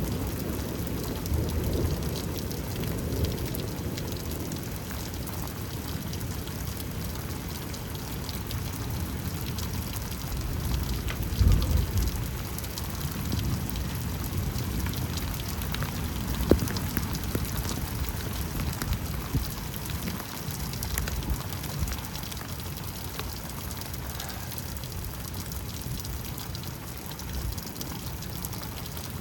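Rain falling steadily, with low thunder rumbling near the start and a louder roll of thunder partway through.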